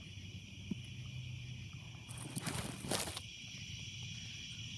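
Steady chorus of night insects, a constant high-pitched trilling. About two and a half seconds in, a brief rustling noise rises over it.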